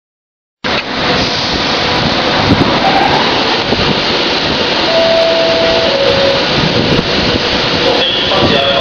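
Virgin Trains Class 390 Pendolino electric train heard at close range: a loud, steady rushing noise mixed with wind on the microphone, cutting in abruptly under a second in.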